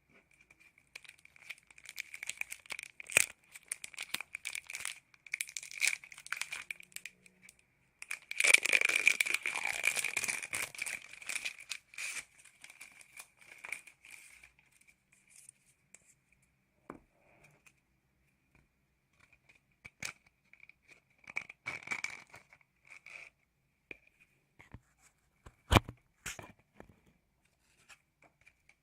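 Ear candles in both ears crackling and rustling close to the microphone, in irregular bursts with scattered sharp snaps, over a faint steady high-pitched tone.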